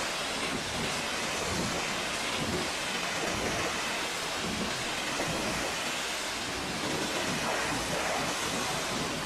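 Steady rushing hiss of water spraying onto a car in a car wash, with no change in level.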